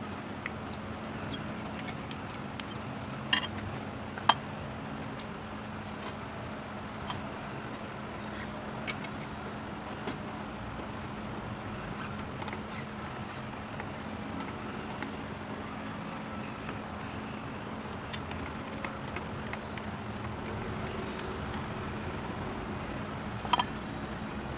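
Small metal parts and hand tools clinking and tapping during work on a diesel injection pump, with a few sharp ringing clinks (the loudest about four seconds in and another near the end) over a steady background hum.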